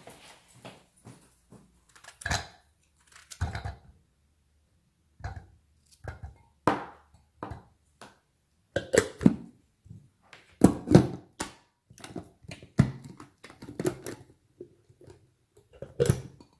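Irregular clicks, knocks and light clatter of kitchen things being handled on a counter, with a busier run of knocks about two-thirds of the way through.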